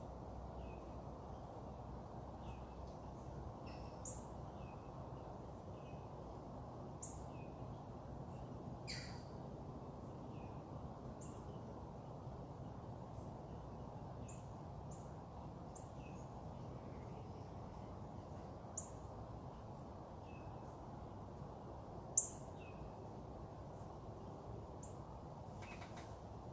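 Short, high bird chirps at irregular intervals over steady low background noise, with one louder chirp about two-thirds of the way through.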